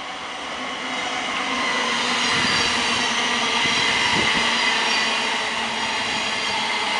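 A Great Northern electric multiple unit passing close by on the rails: a steady rushing run of wheels and running gear with a few high tones running through it. It grows louder over the first two seconds as the train comes alongside, then holds.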